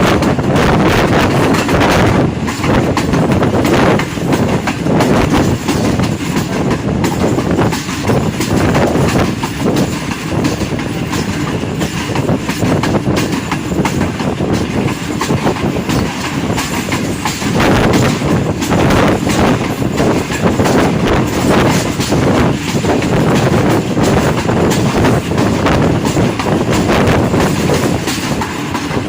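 Rehman Baba Express passenger train running, heard from on board: a steady rumble of the coaches with the wheels clattering over the rail joints.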